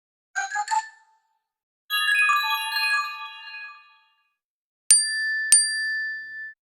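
Three Apple iPad alert tones in a row: a brief chime of a few quick notes, then a cascade of bell-like notes stepping downward and fading out, then two identical dings about half a second apart with a steady ring after them.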